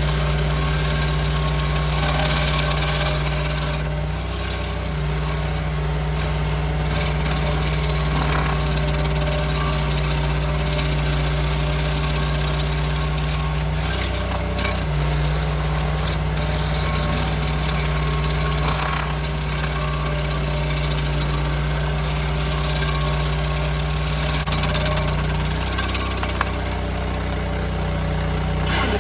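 Mini skid steer's engine running steadily, driving a hydraulic stump grinder into an oak stump. The engine note briefly sags three times, typical of the grinder wheel taking a heavier bite.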